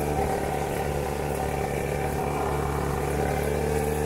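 Small motorcycle engine running at a steady speed while riding, its pitch holding level.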